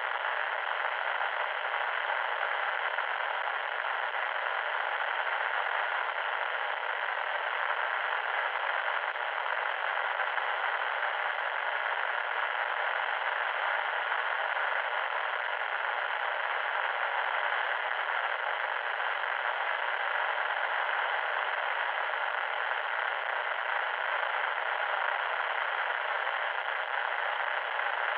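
Loud, steady static hiss, band-limited like radio or telephone-line static, running unchanged without breaks or tones.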